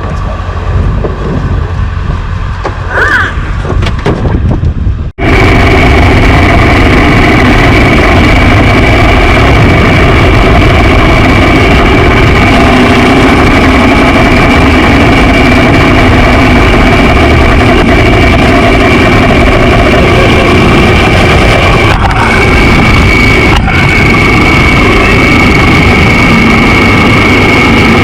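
Honda XR650L single-cylinder dual-sport motorcycle being ridden at a steady pace, its engine running under a loud, steady rush of wind on the microphone with a constant high whine. The sound changes abruptly about five seconds in, from quieter, uneven sound to the steady riding roar.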